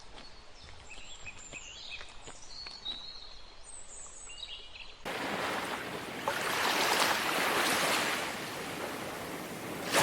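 Faint short bird chirps and light clicks over quiet outdoor background, then, about halfway through, an abrupt switch to a loud, steady rushing noise.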